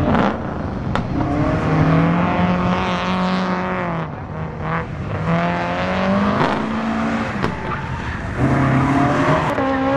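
Drift car's engine revving hard, its pitch climbing and dropping again and again as the car slides, with tyre squeal and a few sharp clicks.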